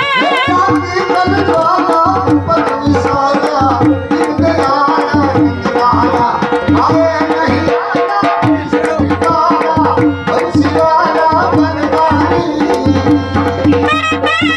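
Gujarati folk music: a sarnai (folk shehnai) playing a fast, ornamented melody over a steady dhol beat.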